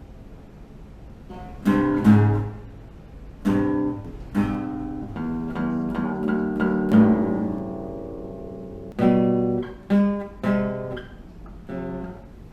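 Acoustic guitar music: a slow series of strummed chords, each left to ring out and fade before the next, starting about a second and a half in.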